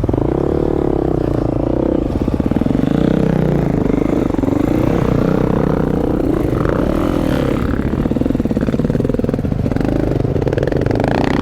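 Dirt bike engine running close by, its pitch rising and falling as the throttle is worked.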